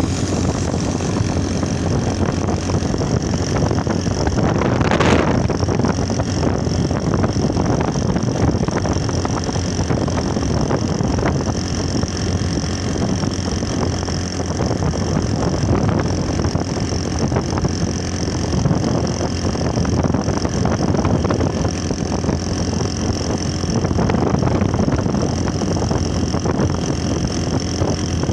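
Motorcycle engine running steadily, with one brief louder swell about five seconds in.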